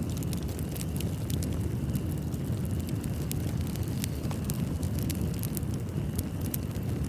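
Wood fire in a fireplace burning, a steady low rumble of flames with frequent small sharp crackles and pops scattered throughout.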